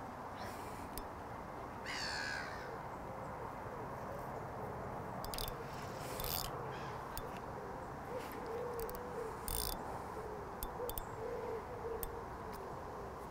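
A bird calling repeatedly, in low wavering notes, over steady outdoor background hiss, with a few brief sharp clicks and knocks.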